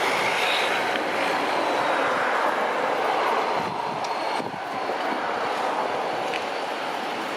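Embraer E-195 airliner's twin turbofan engines, a loud steady rush of jet noise with a faint high whine, easing slightly a little past halfway.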